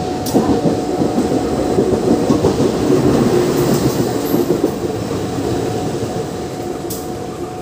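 A diesel-hauled KAI train running through the station at speed close by: the rumble of the cars and wheels clattering over the rail joints. It gets loud about a third of a second in and eases off toward the end.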